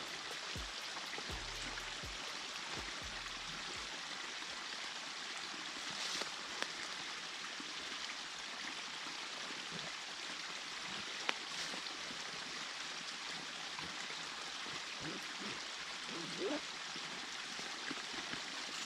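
A creek's water running steadily in an even rush, with a few faint clicks.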